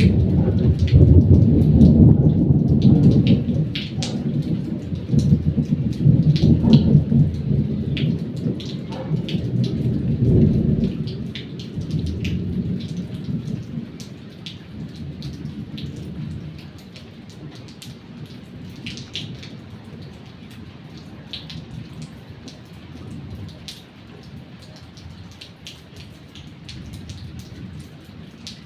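Thunderstorm: a long low roll of thunder rumbling through roughly the first ten seconds and then dying away, over steady rain with sharp drops and drips.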